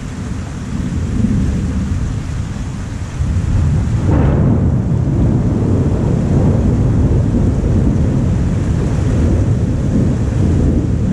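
Thunder rumbling during a thunderstorm, growing louder about three seconds in, with a sharper clap about four seconds in, then a long heavy rumble.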